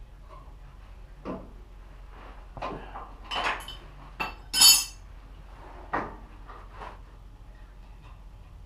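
A series of separate metal clinks and knocks, about seven in all, as metal tools or parts are handled and set down. The loudest is a ringing clank a little past halfway.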